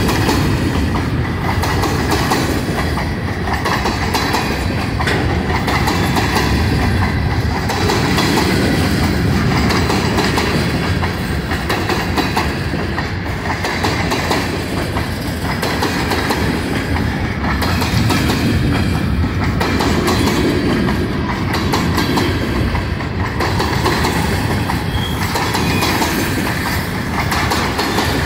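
Empty grain hopper cars of a long freight train rolling past, their wheels clacking steadily over the rail joints in a regular rhythm.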